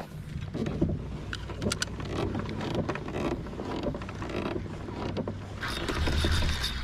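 Small knocks and clicks of gear being handled on a fishing kayak, over a steady low hum. Near the end, wind gusts across the microphone.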